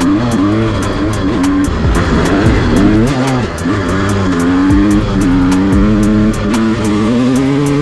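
Honda CR250's two-stroke single-cylinder engine revving up and down, the pitch rising and falling over and over, under background music with a steady beat.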